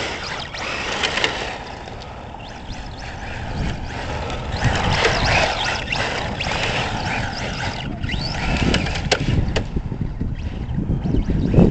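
Electric RC truck on a Tamiya TT-01E chassis driving over rough, bumpy ground: tires rolling and scrabbling, with scattered knocks and clicks from the chassis and faint motor whine. The driver suspects a tire has come unglued from its wheel.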